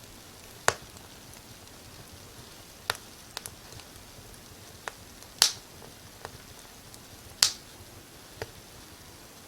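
Wood fire crackling in a fireplace: sharp, irregular pops every second or so, the loudest about five and a half and seven and a half seconds in, over a faint steady hiss.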